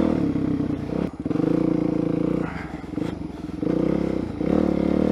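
Suzuki DR-Z400SM's single-cylinder four-stroke engine pulling under throttle as the rider rolls on and off: the note drops away briefly about a second in, eases off for about a second halfway through, then picks up again.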